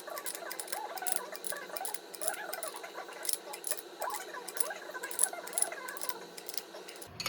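Rapid, irregular small metallic clicks and clinks of hand tools and parts being handled during a dirt bike shock linkage rebuild.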